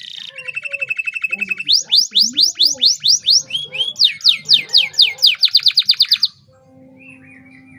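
Domestic canary singing loudly: a fast, even trill on one pitch, then a run of quick downward-sweeping notes that speeds up before the song stops about six seconds in.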